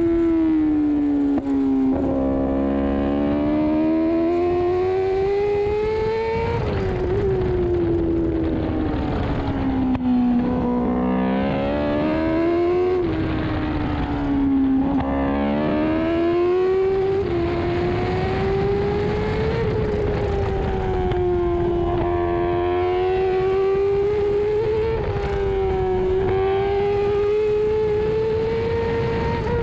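Kawasaki ZX-10RR superbike's inline-four engine at racing speed, recorded from the bike's tail. The engine note slowly rises and falls through the lap, with several sudden steps in pitch, over steady rushing wind.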